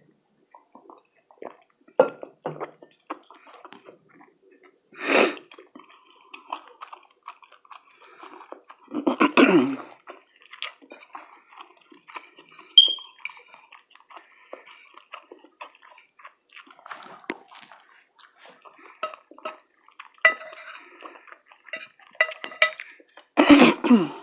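A person chewing and eating fish, grits and toast close to the microphone: soft wet mouth clicks and smacks, with a few louder short noises.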